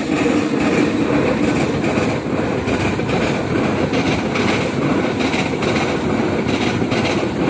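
A passing train: a loud, steady rumble and rattle of wheels on rails that comes up suddenly at the start and holds on.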